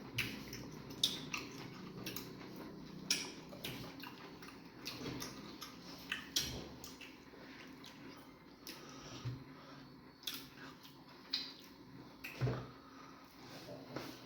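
Close-up wet eating sounds of fufu with egusi soup: irregular squelching clicks and lip smacks as food is chewed and swallowed.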